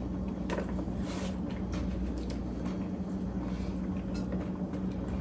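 Kitchen knife cutting a Korean radish on a cutting board: scattered, irregular cuts and taps, not a fast chopping rhythm, over a steady low hum.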